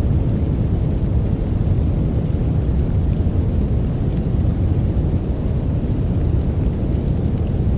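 Steady sleep noise, deep and rumbling with little hiss, more like brown noise than bright white noise, holding an even level throughout.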